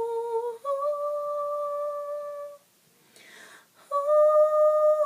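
A solo female voice singing long, held 'ooh' notes a cappella, with no accompaniment. A breath is drawn in a gap about three seconds in before the next note.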